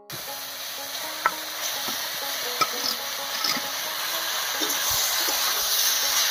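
Boiled taro leaves and green mango frying in mustard oil in a metal kadai: a steady sizzle that grows a little louder, with a spatula stirring and knocking sharply against the pan twice.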